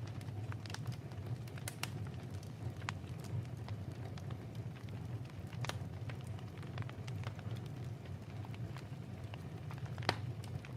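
Wood fire crackling in a fireplace, with scattered irregular pops over a steady low rumble. One pop near the end is louder than the rest.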